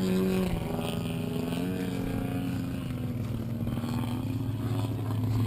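Engine of a large-scale radio-controlled model airplane running in flight, its pitch dropping about half a second in and then slowly rising again.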